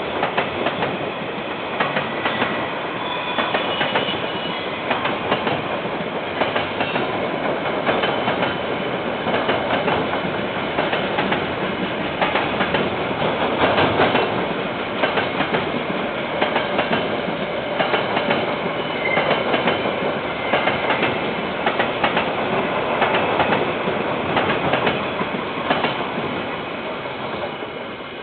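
A KiwiRail train's wagons rolling past, their wheels clicking and clacking over the rail joints in an irregular run, dulled by a security camera's microphone. The sound fades away near the end.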